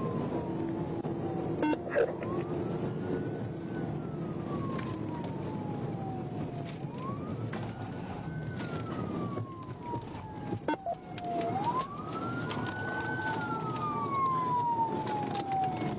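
Police car siren in a slow wail, rising quickly and falling slowly about every five seconds, over steady road and engine noise. A few sharp knocks come about two seconds in and again past the ten-second mark.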